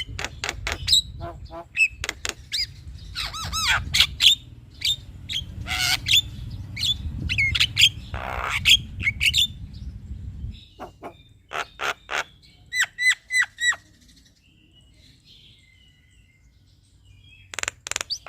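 Male Javan myna singing: a varied run of whistles, squawks and chattering notes, over a low hum that stops about two-thirds of the way through. After a few seconds' pause, loud calls return near the end.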